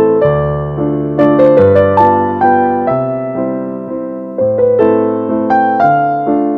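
Piano music: a melody of struck notes, each fading away, over bass notes that change every second or two.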